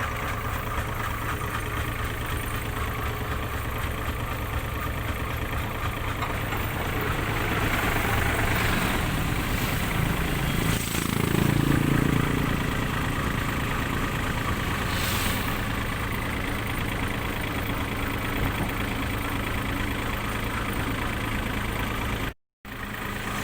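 Truck engine running steadily, growing louder for a few seconds near the middle, with a short hiss about 15 seconds in; the sound cuts out briefly near the end.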